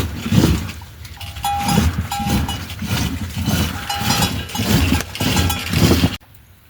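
Bells on grazing livestock clanking unevenly as the animals move, with short ringing tones among the jostling; the sound cuts off suddenly near the end.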